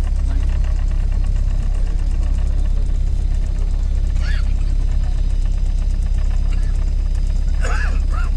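Tour boat's inboard engine running steadily, heard on board: a deep, even drone with a fast regular beat.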